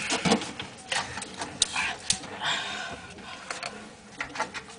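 Irregular rustling and light knocks of food packages and containers being handled and moved about in a refrigerator.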